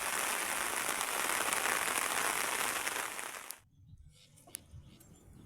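Heavy rain falling steadily, cutting off abruptly about three and a half seconds in, after which only a few faint clicks remain.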